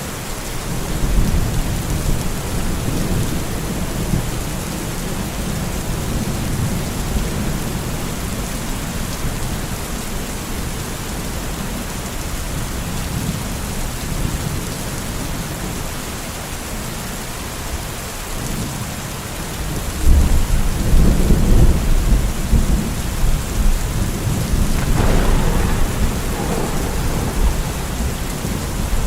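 Steady heavy rain with thunder rumbling low underneath; a louder, deeper roll of thunder comes in suddenly about two-thirds of the way through and rolls on to the end.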